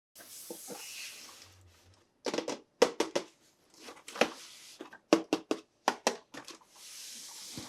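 Hands handling plastic toy parts and packaging: a soft rustle, then a quick run of sharp plastic clicks and taps, then rustling again near the end.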